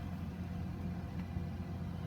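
Steady low hum with a faint hiss inside a Boeing 737 flight deck before engine start, the aircraft on APU power with its engines not yet running.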